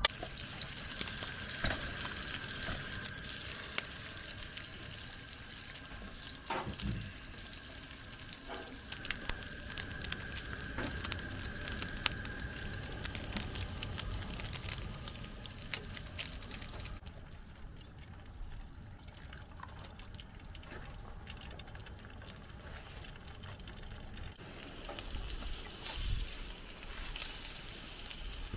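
Food sizzling in a pan, a steady frying hiss with scattered small clicks and knocks of utensils. The sizzle drops away for several seconds past the middle, then comes back.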